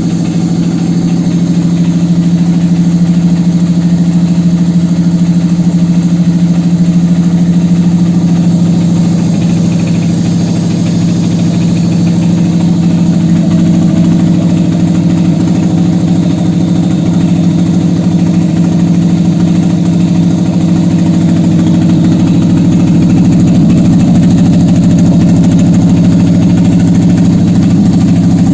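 Toyota 1ZZ-FE 1.8-litre inline-four engine running steadily on a test stand, checked as a used replacement engine. It holds an even, unchanging hum, getting slightly louder in the second half.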